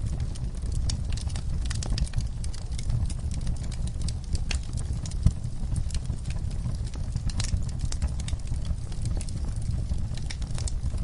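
Wood fire in an outdoor fireplace crackling, with many irregular sharp pops and snaps over a low steady rumble. One pop about five seconds in is louder than the rest.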